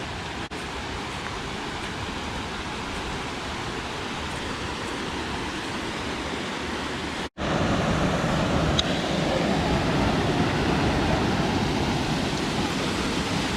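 Waterfall rushing, a steady wash of water noise. It cuts out for an instant about seven seconds in and comes back louder.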